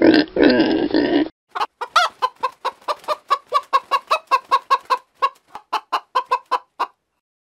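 Chicken clucking: a run of short, quick clucks, about four a second, for about five seconds. It follows a louder, different sound that lasts about a second at the start.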